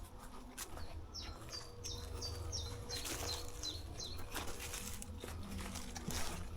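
A songbird singing a quick run of about eight high, downward-slurred notes, lasting about three seconds from a second in, over scattered crunching footsteps in undergrowth.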